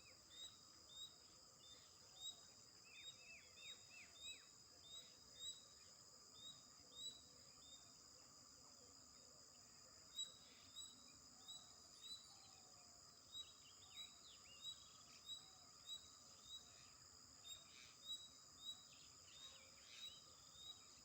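Faint bird chirps, short and high, repeating about every half second, with a few quick falling calls mixed in. Under them runs a steady high-pitched hum.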